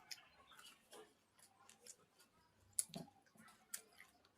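Close, quiet eating sounds of a person chewing, with scattered small wet clicks and one sharper click near the end.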